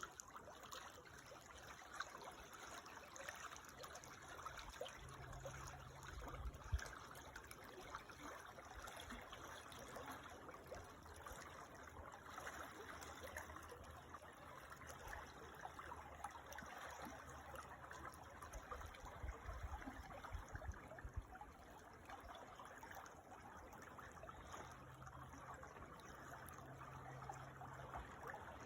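A creek flowing and trickling faintly and steadily. Low rumbles come twice, with a brief thump about seven seconds in.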